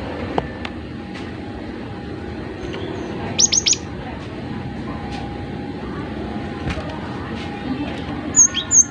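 Cinereous tit (gelatik batu) giving a quick run of about four sharp, high notes about three and a half seconds in, and a few more high chirps near the end, over steady background noise with a faint hum.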